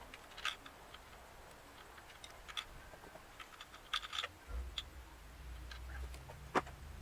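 Scattered sharp clicks and light taps of hand work on the engine's parts, the loudest near the end. About halfway through, a low steady rumble sets in and slowly grows.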